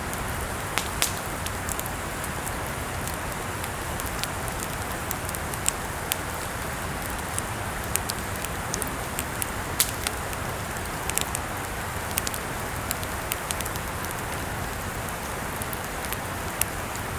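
Wood campfire burning: a steady hiss with frequent sharp crackles and pops scattered irregularly throughout.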